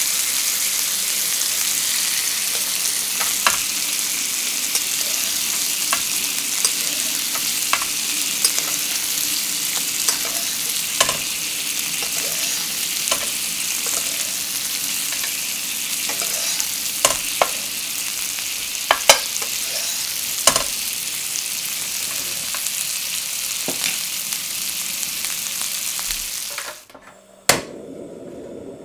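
Chicken breasts sizzling in hot oil in a frying pan: a steady hiss with scattered pops and spits. Near the end the sizzle cuts off abruptly, followed by a single click and a quieter steady hiss.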